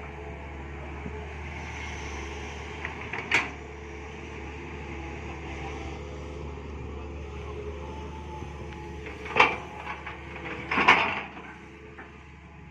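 Mini excavator running steadily while working, with three sharp knocks from the machine at work, about 3 s, 9 s and 11 s in, the last a quick cluster.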